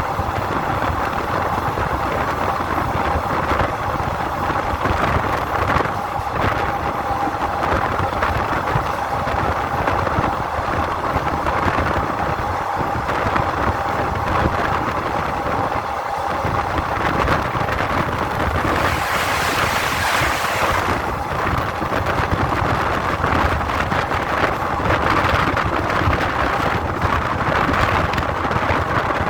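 Steady vehicle rumble with wind noise and a constant high whine, and a brief burst of hiss about nineteen seconds in.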